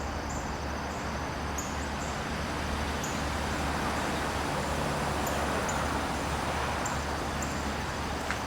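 Outdoor garden ambience: insects trilling in high, pulsing notes over a steady low rumble and hiss.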